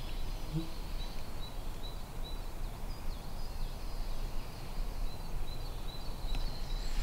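Forest ambience: faint, short, high bird chirps repeating every second or so over a low steady rumble.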